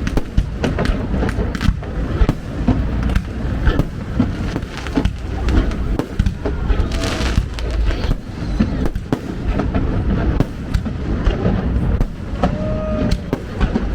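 Fireworks display: a rapid, continuous run of overlapping bangs and crackles from aerial fireworks bursting.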